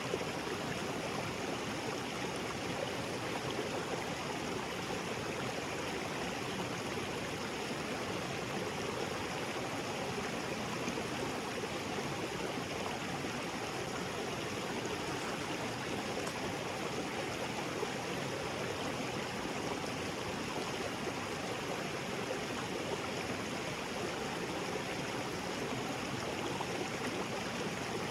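Small waterfall and creek water splashing and rushing over rocks, a steady, even sound.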